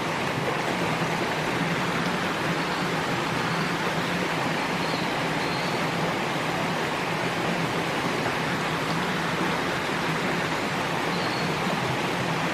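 Rushing water of a fast-flowing woodland stream, a steady even rush with no breaks.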